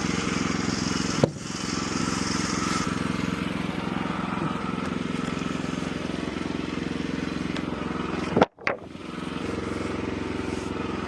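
Portable sawmill's small gasoline engine running steadily, with a short click about a second in and a brief break in the sound near the end.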